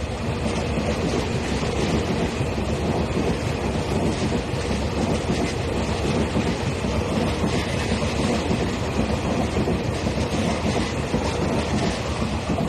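Taiwan Railway train passing close by through a station: a loud, steady rumble of wheels on rail that rises just before and fades just after.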